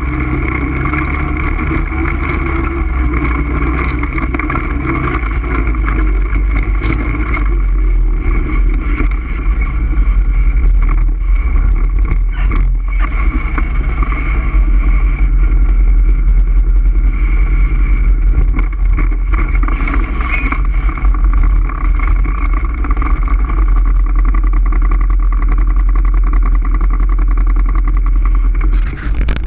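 All-terrain vehicle (ATV) engine running steadily under way, with a heavy low rumble beneath it.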